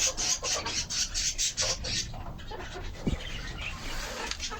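Quick, even rustling strokes, about five a second, for the first two seconds, then faint clucking of chickens.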